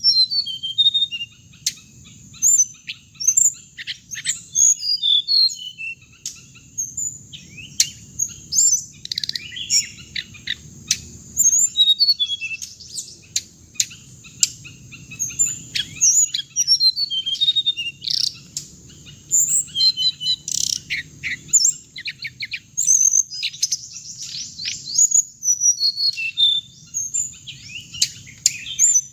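Hồng hạnh bird calling: rapid high-pitched chirps and twitters in quick irregular series, without pause. It is a lure recording of the kind played through a loudspeaker to draw the birds to a trap.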